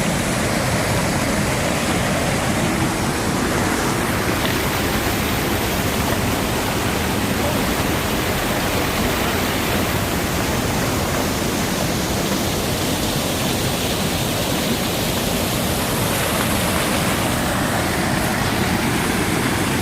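Mountain stream water rushing and cascading over rocks, a steady loud rush.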